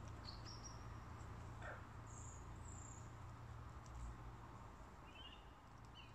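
Faint bird chirps and short whistles over a steady outdoor background hiss, with one falling whistle about two seconds in.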